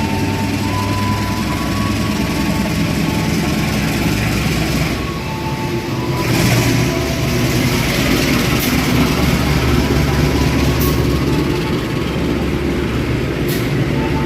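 Diesel locomotive running steadily as the train pulls into the station, its low engine drone under the noise of the moving train, which swells about six seconds in.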